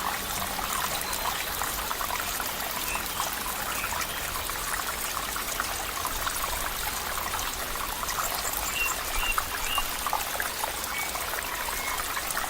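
Flowing stream water trickling and splashing steadily, with many small overlapping drips and bubbles.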